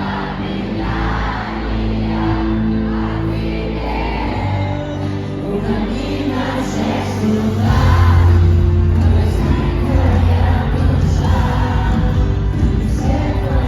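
Live pop concert music played loud over an arena PA: a sung melody over sustained backing with crowd noise, and a heavy bass beat coming in about eight seconds in, making it louder.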